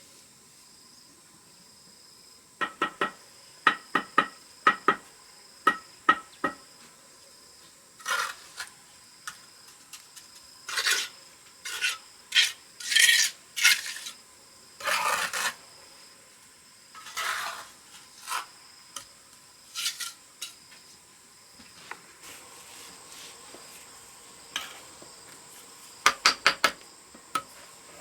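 Metal trowel working brick and cement mortar: a quick run of sharp, ringing taps, then rough scrapes, then another cluster of taps near the end.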